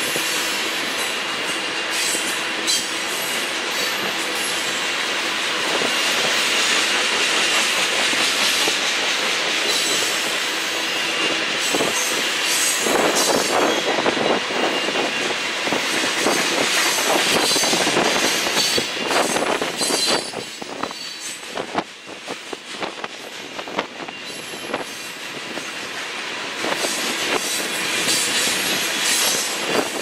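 Freight train cars rolling past, wheels clicking over the rail joints with a steady high metallic squeal from the wheels on the rails. The sound eases for a few seconds past the middle, then builds again.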